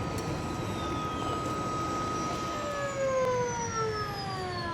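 Aircraft turbine whine over a steady rumble, with a set of tones gliding down in pitch together through the second half, as a turbine spools down.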